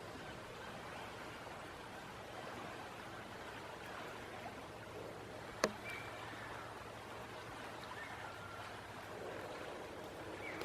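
Steady rush of creek or tidal water, with a single sharp click about halfway through.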